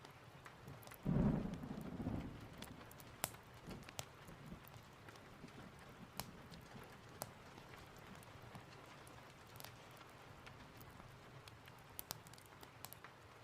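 Steady rain with a short burst of thunder about a second in, fading out within a couple of seconds. Scattered sharp pops of a crackling wood fire run throughout.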